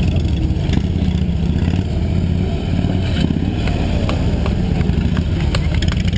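Police motorcycle engine running at low speed and varying throttle through a tight-turn drill, with a few sharp ticks near the end.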